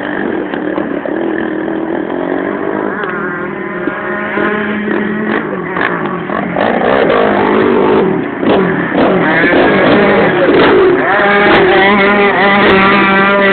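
Motocross bike engine revving hard, its pitch rising and falling again and again with throttle and gear changes, getting louder over the second half as it comes closer.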